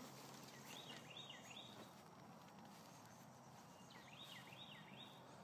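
Faint bird song: a quick phrase of three or four repeated swooping notes, sung twice about three seconds apart, over a low steady hiss.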